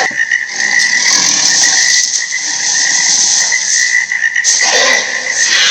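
A creature sound effect: a continuous, loud rasping croak-like call with a steady high whistling tone running through it.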